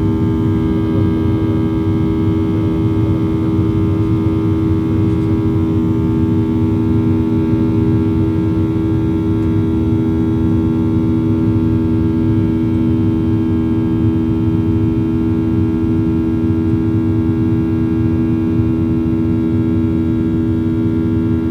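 Jet aircraft noise, a loud steady hum with several unchanging tones over a low rumble.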